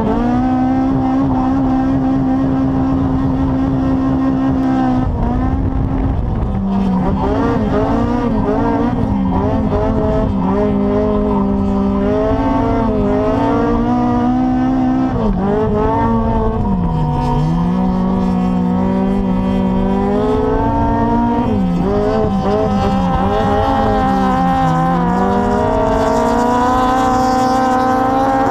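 Toyota AE86's 20-valve 4A-GE four-cylinder engine at high revs, heard inside the cabin, its pitch dipping and climbing again every few seconds through the drifts, with tyres squealing as the car slides.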